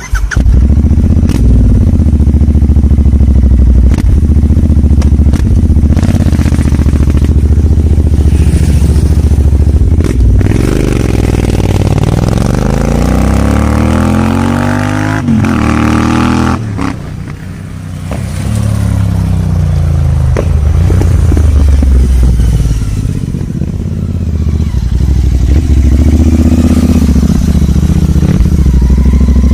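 Royal Enfield Interceptor 650's 650 cc parallel-twin engine running loud and deep through a new aftermarket exhaust. Its note climbs in pitch through the middle, breaks off and drops back, then rises again near the end.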